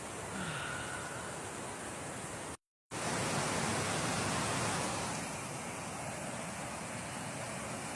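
Steady rush of water pouring over a low-water river dam. The sound drops out completely for a moment about two and a half seconds in, then returns a little louder for a couple of seconds before settling.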